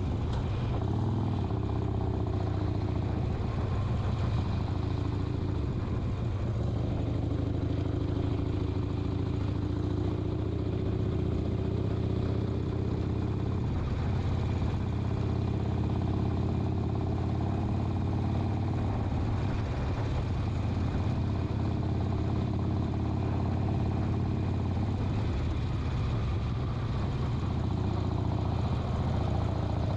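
Harley-Davidson Sportster XL 1200's air-cooled V-twin engine running steadily while riding, its pitch rising and falling gently with engine speed.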